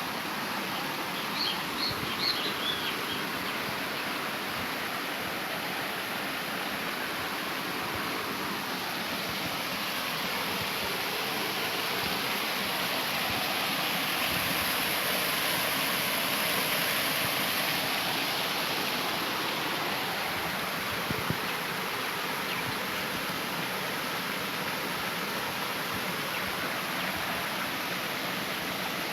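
Steady rush of flowing water, a stream running full after heavy rain, swelling a little in the middle. A few short high chirps sound about two seconds in.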